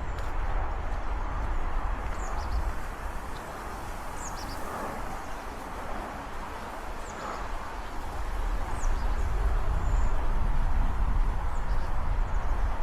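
Outdoor ambience: wind on the microphone makes a heavy low rumble over a steady rustling hiss, while small birds give short, high chirps now and then.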